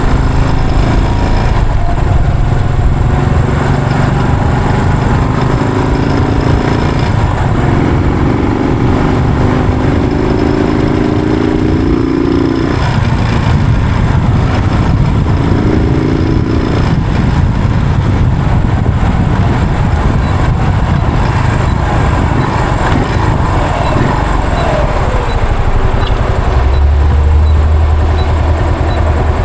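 Yamaha SR400's single-cylinder four-stroke engine running under way, with a steady rush of wind noise over it.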